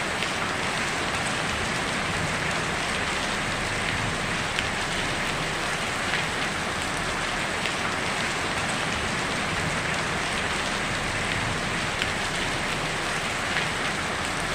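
Heavy rain falling steadily on a tin roof: a dense, even patter with occasional sharper drop ticks.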